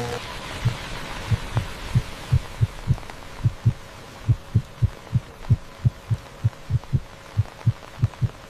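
Heartbeat sound effect: a steady run of short, low thumps, many in lub-dub pairs, a few beats a second, over a faint hiss.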